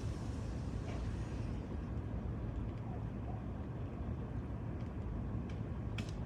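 Vehicle driving slowly, a steady low rumble of engine and tyres, with a few light clicks near the end and a sharper click about six seconds in.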